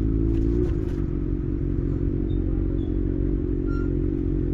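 Kawasaki ZX6R's inline-four engine running steadily at a constant low speed, its pitch wavering slightly about half a second in.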